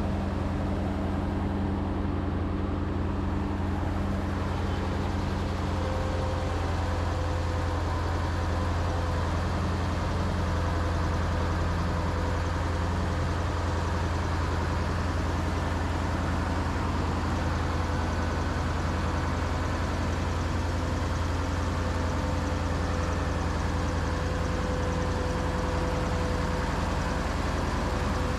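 Heavy diesel farm machinery running at a steady speed, a constant low drone that does not rise or fall.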